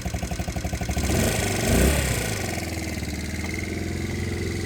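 Motorcycle engine running just after being started with the starter button: it revs up briefly about two seconds in, then settles into a steady idle.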